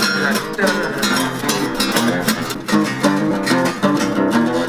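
Guitar playing: strummed and picked notes moving through a run of changing chords.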